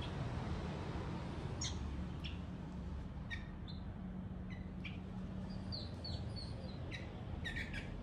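Hand-fed fledgling songbirds giving short, scattered chirps, more of them near the end, over a steady low hum.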